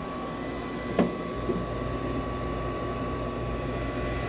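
Furnace draft inducer motor spinning up and then running steadily, a whir with a thin steady whine, with one sharp click about a second in. The burners don't light: the pressure switch does not close, which the technician puts down to a bad switch.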